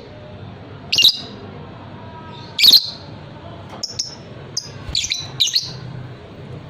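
Lovebird giving shrill chirping calls: two loud calls about a second and nearly three seconds in, then a quick run of shorter chirps in the second half.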